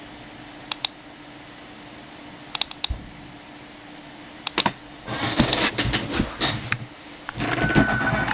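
Sharp clicks in twos and threes over a steady low hum, then from about five seconds in a louder stretch of dense clicking and clatter.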